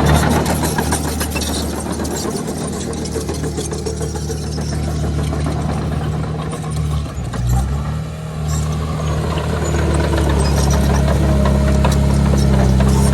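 Diesel engine of heavy earthmoving machinery running under load, with scattered clanks and rattles. It dips briefly a little past halfway, then comes back up and holds steady.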